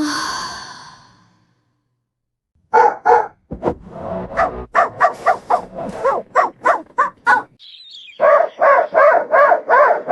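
A brief ringing tone fades out at the start. After a short silence come two runs of quick, short, pitched animal calls, about three a second, like rapid barking.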